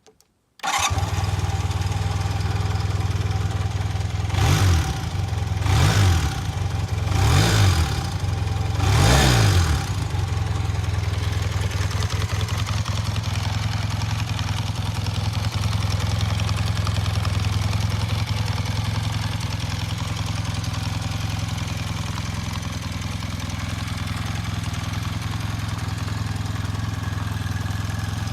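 Honda CB400T Hawk II's air-cooled parallel-twin engine firing up and catching about a second in, then idling. It is given four quick throttle blips, each rev rising and falling back, before settling into a steady idle.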